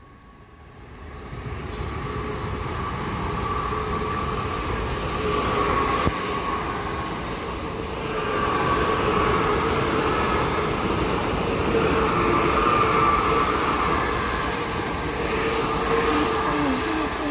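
Electric passenger train approaching and running past the platform. Its rumble builds over the first few seconds, then holds steady as the coaches go by, with a steady whine running through it.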